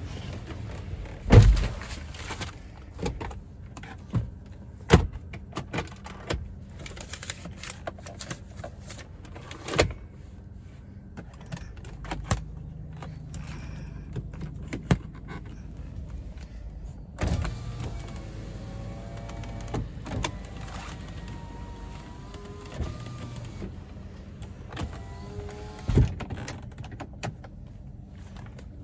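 Inside a Toyota Innova Crysta: a string of clicks and knocks from fittings and controls being worked, the loudest thump about a second in, over a low steady hum. A small electric motor whirs at times, as from a power window.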